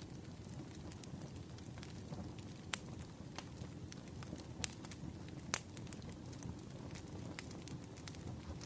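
Wood fire crackling: sharp pops and snaps every second or so over a steady low rushing noise.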